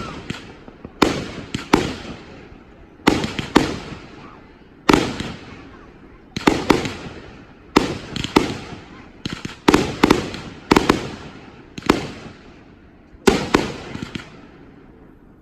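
Aerial shell breaks from a 500-gram nine-shot fireworks cake: loud sharp reports, often two close together, coming every second or so, each trailing off into a rumble.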